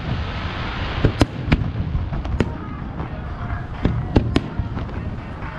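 Aerial firework shells bursting at close range: an irregular run of sharp booms, about two a second, with crackling and rumbling between them.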